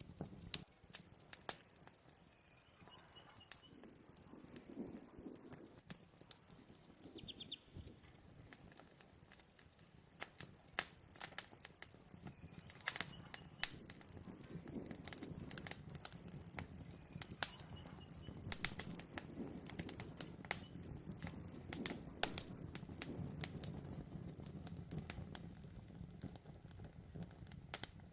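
Crickets chirping in a steady, rapid high trill that stops near the end, over the scattered sharp pops and crackles of a campfire.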